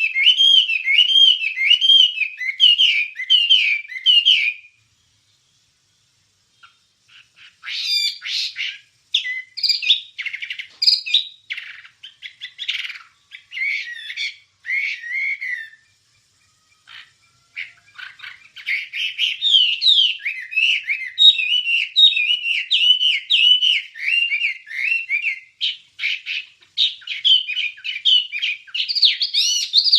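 A wambie songbird singing: a fast run of repeated warbled notes, a pause of a few seconds, a varied chattering phrase, then a long continuous warbling song that climbs higher near the end.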